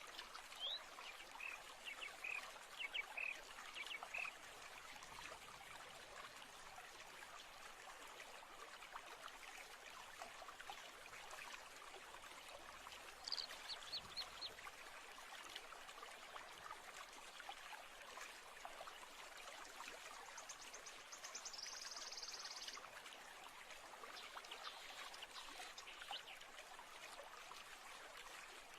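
A stream running steadily, with birds chirping over it: a quick run of chirps at the start, a few more about halfway through, and a fast high trill a little later.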